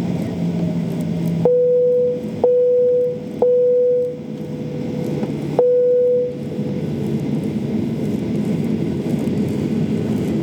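Four single-pitch electronic chime tones, each struck sharply and fading within about a second. They sound over the steady hum of an airliner cabin; the fourth comes after a short gap.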